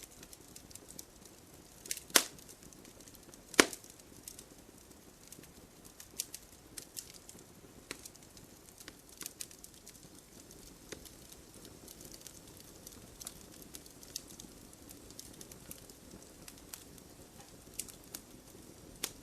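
Wood fire crackling in a fireplace: a steady scatter of small snaps and ticks over a low hiss, with two loud pops about two and three and a half seconds in.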